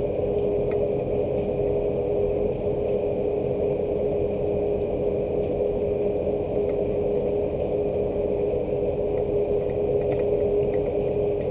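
Steady rain with a constant low mechanical hum under it that carries one steady tone, and a few faint scattered drip ticks.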